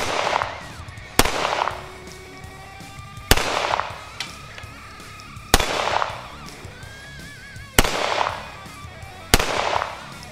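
Six pistol shots from an Arsenal Firearms Strike One, spaced unevenly one to two seconds apart, each with a short echoing tail. Background music plays underneath.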